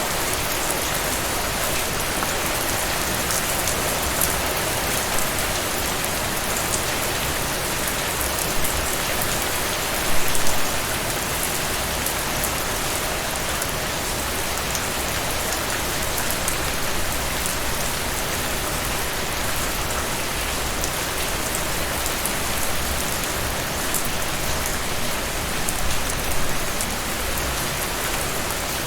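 Steady heavy rain falling on a surface, a dense even hiss with many small drop patters, swelling briefly louder about ten seconds in and again near the end.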